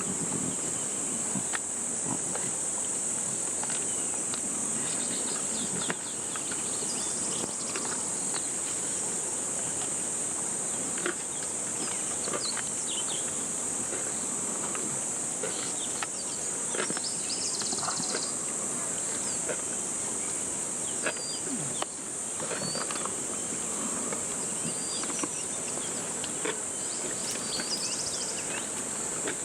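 Insects in the bush making a continuous high-pitched shrill, with scattered short chirps and clicks over it.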